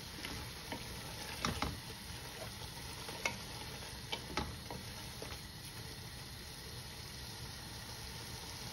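Vegetables in masala sizzling faintly in a pot as a wooden spatula stirs them. A few short scrapes and taps of the spatula against the pot come in the first half.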